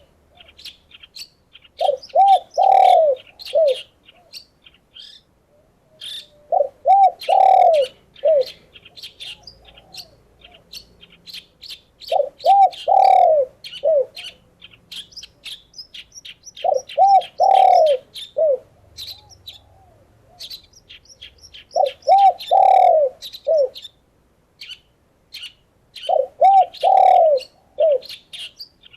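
A dove cooing a phrase of several rounded notes, one note louder than the rest, repeated about every five seconds, six times in all. Small birds keep up quick high chirps and tweets throughout.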